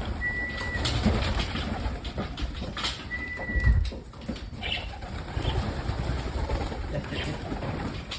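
Racing pigeons cooing around the loft, over a steady low rumble. Two short, steady high notes sound, one near the start and one about three seconds in.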